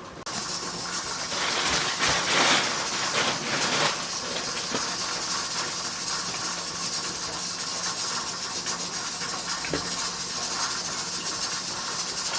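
Steady hiss of steam venting from a pressure canner, with a faint low hum underneath.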